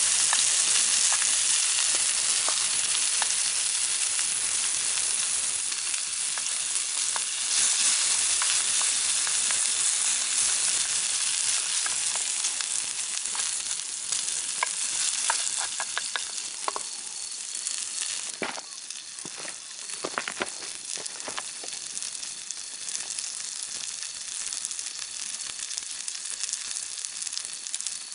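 Food sizzling and hissing in a pan over a campfire. The hiss eases off in the second half, and scattered sharp crackles come through about halfway in.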